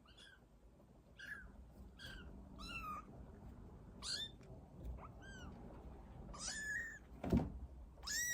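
Kittens mewing: about eight short, high-pitched mews, roughly one a second. There is a single sharp thump near the end.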